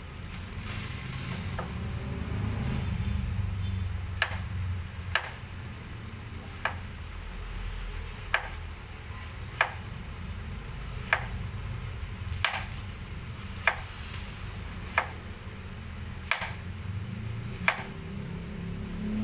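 Knife slicing an onion on a chopping board: about eleven sharp knocks, one every second or so, starting about four seconds in, over a steady low hum.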